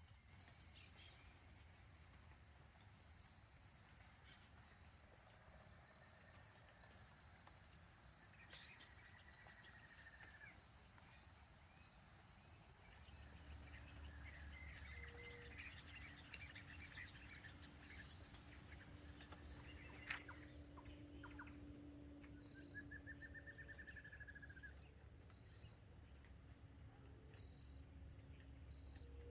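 Faint dawn countryside ambience: a steady high-pitched chorus of crickets and other insects, one of them chirping in a regular pulse, with a few short bird calls scattered through it.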